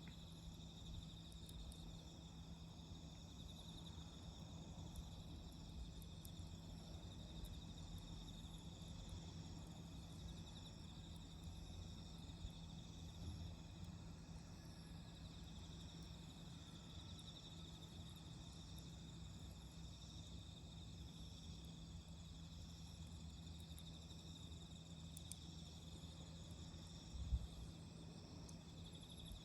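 Faint, steady chirring of autumn insects, several pulsing tones overlapping. Over it come a few light ticks from the campfire and a soft thump near the end.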